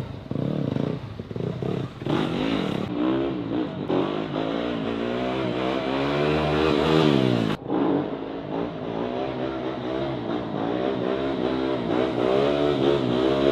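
Motocross bike engine revving hard and running under load as the rider holds a wheelie, its pitch climbing and wavering with the throttle. The pitch drops sharply and the engine briefly cuts out about seven and a half seconds in, then picks up again.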